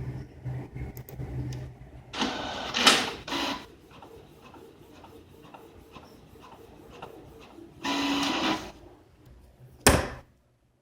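A desktop printer running: a run of regular clicks about three a second, with louder whirring passes about two seconds in and again near eight seconds, then a single thump.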